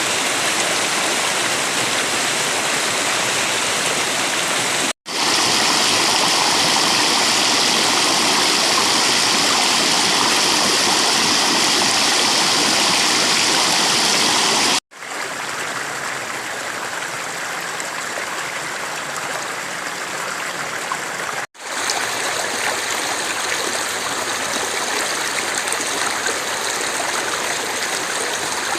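River water flowing steadily, a dense rushing sound. It cuts out briefly three times, and the loudness and tone change slightly after each break.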